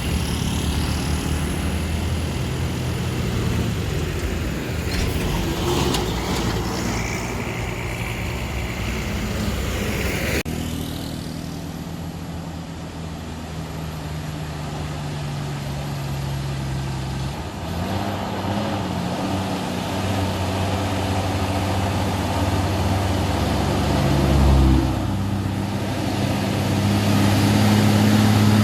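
Heavy diesel engines of dump trucks and excavators running, the engine note shifting up and down as they rev. The sound changes abruptly about ten seconds in.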